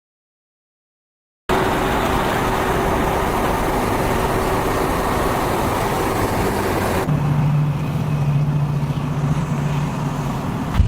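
Silence for about a second and a half, then loud, dense vehicle engine noise with a steady hum. About seven seconds in it switches abruptly to a different engine sound with a lower, steady drone.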